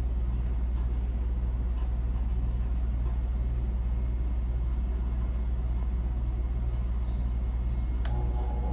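Steady low mechanical hum and rumble, with a single sharp click near the end.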